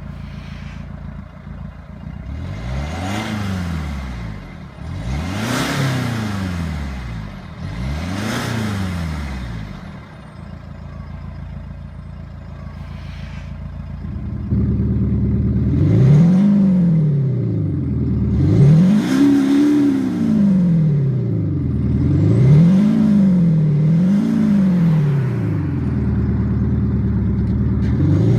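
Mercedes SLK 250 CDI four-cylinder diesel with a Maxhaust Active Sound speaker, revved up and let fall several times. About halfway through, the note suddenly gets louder and fuller, and the following revs carry a strong, deep synthetic engine tone.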